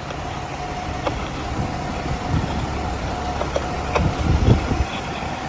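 Steady low rumble of an idling vehicle engine, swelling briefly about four seconds in, with a few faint clicks.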